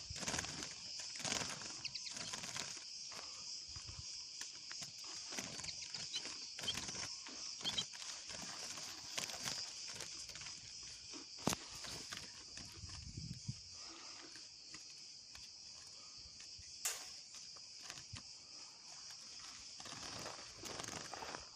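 Quiet outdoor ambience: a steady high hiss with scattered faint ticks and rustles, and two sharp clicks, one about halfway through and one a few seconds before the end.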